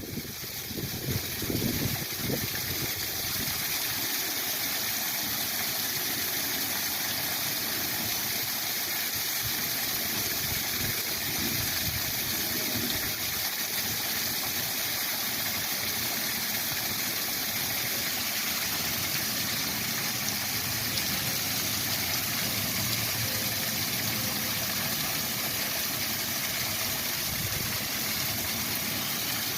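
Waterfall: a steady, unbroken rush of falling water, with a few low gusts of wind on the microphone in the first couple of seconds.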